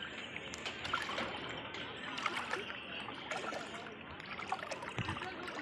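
Floodwater flowing and splashing, a continuous watery wash, with voices mixed in.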